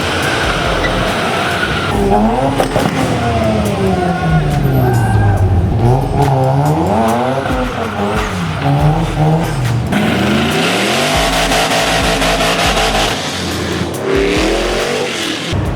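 Car drifting in a parking lot: its engine revs rise and fall again and again, with tyres squealing and screeching. The revving is most marked in the first half, the squealing in the second.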